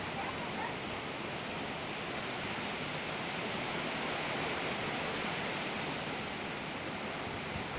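Strong wind blowing, a steady, even rushing noise with no let-up.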